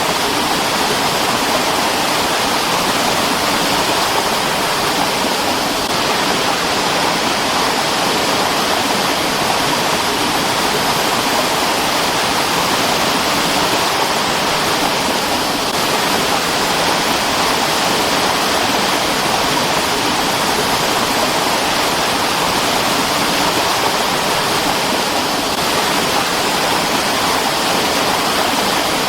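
Mountain stream rushing steadily over rocks, a continuous even flow of water noise.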